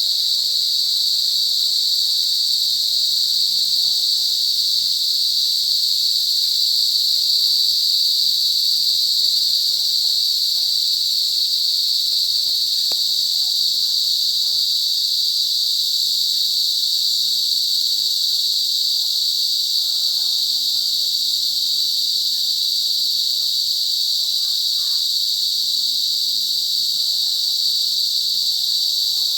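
Cicadas buzzing in a loud, continuous chorus: one steady high-pitched drone that holds without pause or change.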